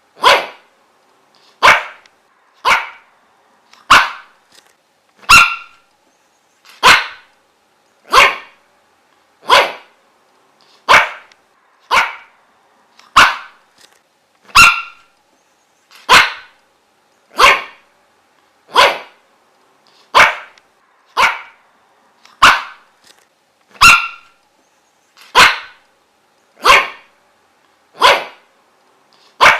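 A dog barking single sharp barks, one after another at a very steady pace of about one every one and a half seconds.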